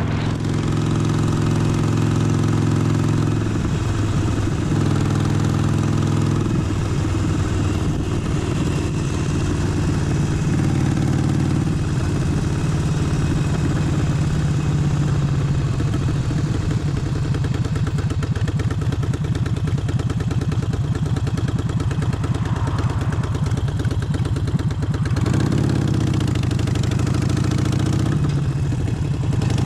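Harley-Davidson Forty-Eight's air-cooled 1200 cc V-twin running under way, with steady low-speed running at first and the engine note changing a few seconds in. The pitch dips and comes back up near the end.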